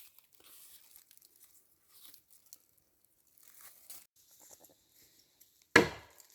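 Faint rustling and crackling, like leaves or material being handled, then a single sharp knock near the end.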